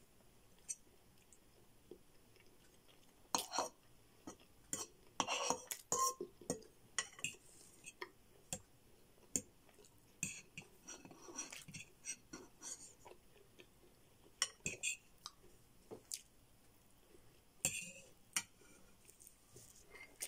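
Close-miked chewing and wet mouth smacking of someone eating spaghetti, with irregular clicks and clinks of a metal spoon against the bowl.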